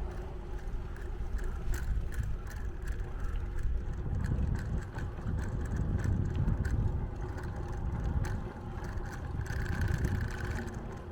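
Riding noise from a bicycle: a steady rumble of wind and road on the microphone, with frequent light ticks and rattles. A brief steady high tone sounds about nine and a half seconds in.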